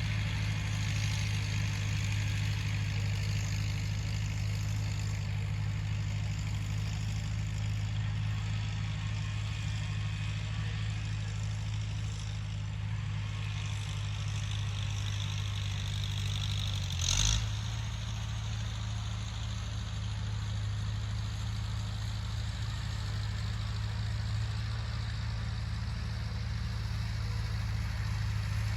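Tractor engine running steadily at a constant speed, with one brief sharp knock about seventeen seconds in.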